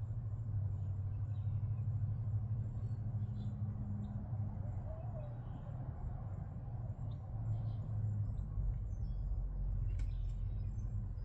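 Outdoor garden ambience: a steady low rumble, with faint bird chirps scattered over it and a single sharp click near the end.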